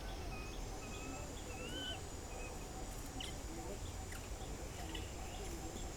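Outdoor ambience of birds giving short whistled chirps and rising notes over a steady high insect drone, with a low rumble underneath.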